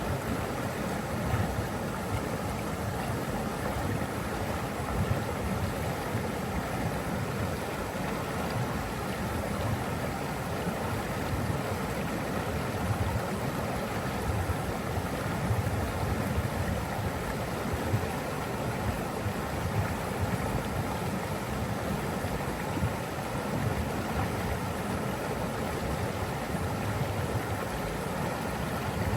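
Steady rushing of flowing water, an even, unbroken wash of noise heaviest in the low range.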